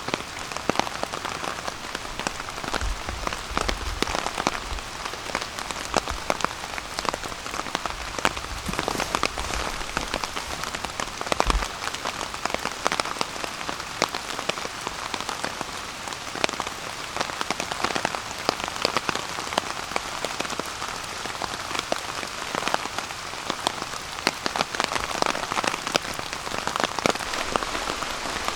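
Steady rain falling on a tarp, dense with individual drop hits, with a few low thumps in the first dozen seconds.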